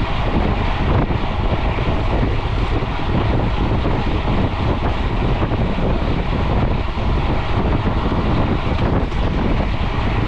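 Steady rush of wind on an action camera's microphone while a mountain bike is ridden at speed on the road, with no break or change throughout.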